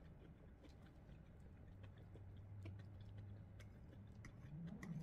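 Faint chewing of soft food, with scattered light clicks of a metal fork against a plate.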